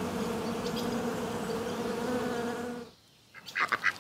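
A bee buzzing steadily with a low hum, cut off about three seconds in. After a brief gap, a duck starts quacking rapidly near the end.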